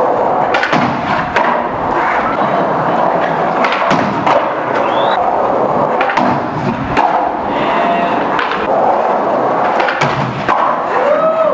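Skate wheels rolling and grinding on rails and a box, with repeated sharp thuds and clacks of landings and board or skate impacts.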